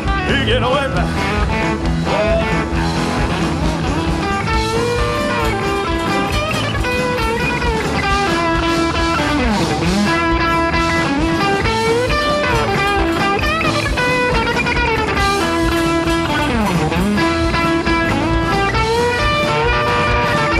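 Live rock-and-roll band playing an instrumental break: an electric guitar solo with bending notes over drums and bass. Twice the guitar swoops down and back up in pitch.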